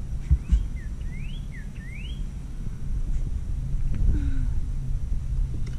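A bird calling with a run of about five short whistled notes, each sweeping upward, in the first two seconds, over a steady low rumble. Two sharp thumps sound under the first notes.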